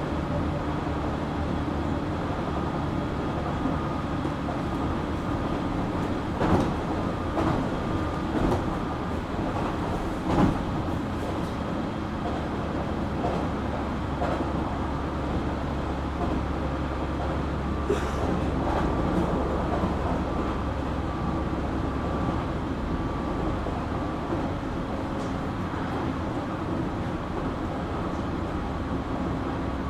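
JR Kyushu 817 series electric train running, heard from inside the car: a steady rumble of wheels and drive with thin steady tones over it and a few sharp knocks from the track. This unit is one the recordist singles out for an unusual drive noise, likened to a Keio 7000 series.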